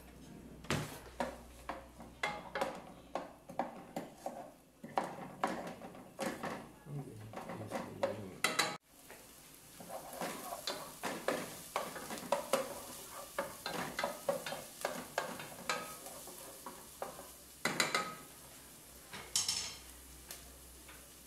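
Chopped onion frying in hot olive oil in a nonstick pot, sizzling, while a wooden spoon stirs it with repeated scrapes and knocks against the pot. The sound cuts out abruptly for a moment about nine seconds in.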